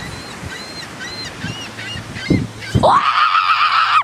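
A flock of birds calling in quick short chirps and squawks. Near the end comes one long, loud, high cry that rises and then holds, before cutting off abruptly.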